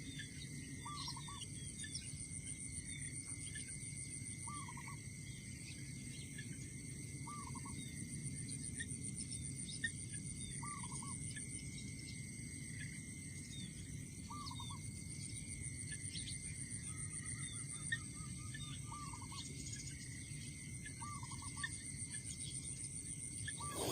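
A bird giving the same short call over and over, about every three seconds, over a steady drone of crickets and the small chirps of other birds.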